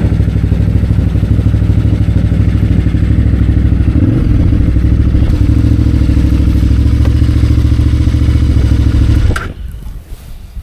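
KTM 990 Adventure R's V-twin engine running loud and close, a fast low pulsing beat that shifts a little about four seconds in, then stops abruptly near the end.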